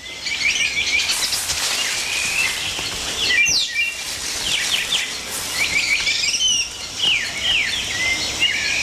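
Tropical rainforest ambience: a steady high hiss of insects under many short, high chirping calls that drop quickly in pitch, coming in scattered clusters.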